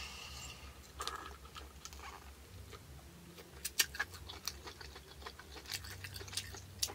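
A person chewing soft lobster claw meat, with wet mouth clicks that grow more frequent in the second half.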